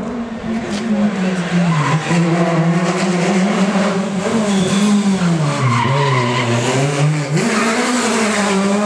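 Peugeot 306 Maxi rally car's four-cylinder engine at racing revs, its note repeatedly falling and climbing again through gear changes and lifts off the throttle. The pitch sinks lowest just before a sharp climb in revs about seven seconds in.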